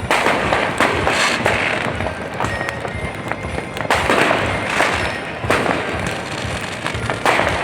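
Fireworks going off in repeated bangs and crackling bursts, with music playing underneath.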